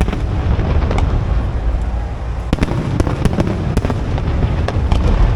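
Aerial fireworks going off: a steady low rumble of shell bursts with many sharp cracks and pops throughout.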